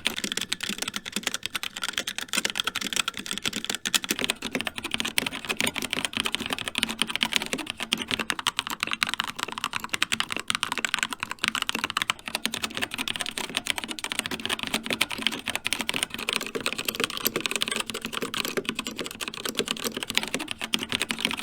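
Continuous fast typing on mechanical keyboards with linear red switches, a dense run of keystroke clacks. It is first a HyperX Alloy Origins with HyperX Red switches, then a Keychron K2 with Gateron Reds, then a CZC Dwarf with Kailh Reds, and the tone of the clacking shifts as each keyboard takes over.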